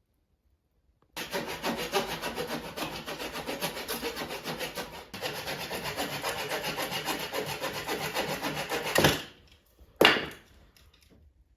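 Hand saw cutting through wood in quick, even back-and-forth strokes, pausing briefly midway and stopping as the cut finishes. About a second later comes a single sharp knock.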